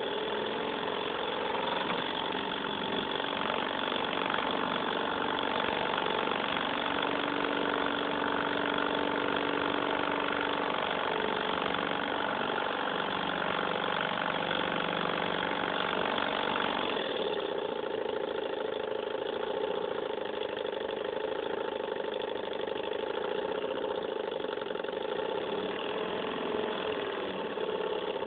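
Small Stirling engine running steadily with an even mechanical hum and clatter. The sound changes abruptly about 17 s in.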